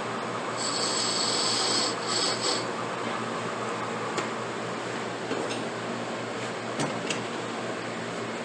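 Rubbing, rasping strokes of hand shaping work on a briar pipe. A high hiss runs for about two seconds near the start, and a few sharp clicks come in the second half.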